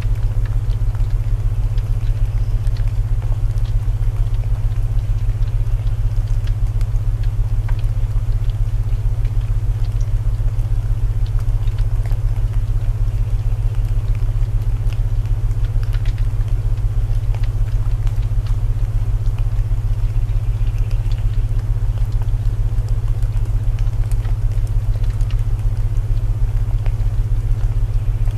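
Layered sleep soundscape: steady low binaural drone tones under an even hiss of rain, with scattered small crackles from a wood fire.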